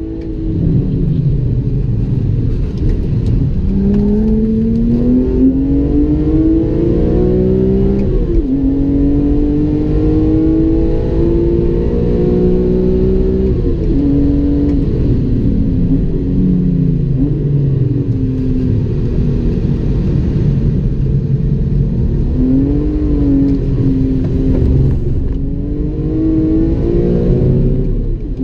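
BMW E46 M3's naturally aspirated 3.2-litre inline-six, heard from inside the cabin, pulling hard through the gears on a race track. The engine note climbs for several seconds, then drops abruptly at each gear change, several times over.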